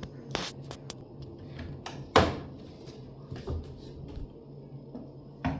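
Scattered clicks and knocks of something being handled, with one loud knock about two seconds in and another near the end, over a steady low hum.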